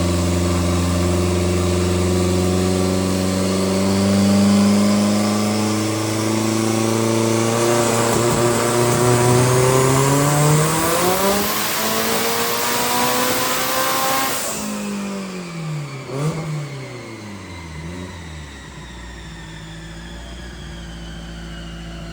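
Turbocharged race car engine on a chassis dyno making a pull. It holds a steady speed, then revs climb for several seconds with a rising whine on top. About fifteen seconds in the revs drop sharply as the throttle is lifted, and the engine settles back to a steady lower speed.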